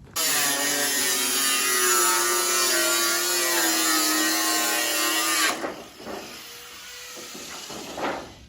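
Electric power tool working into wood: its motor starts suddenly, runs steadily for about five seconds with its pitch sagging slightly under load, then stops abruptly. Quieter scraping and a knock follow near the end.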